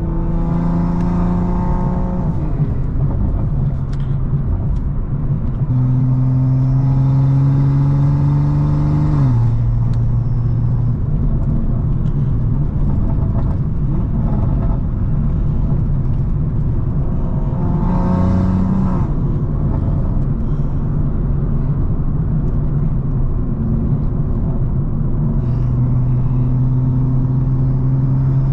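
BMW M340i's turbocharged B58 inline-six accelerating in several pulls, its pitch climbing through each and dropping sharply at a gear change, with a steady low engine and road rumble in between.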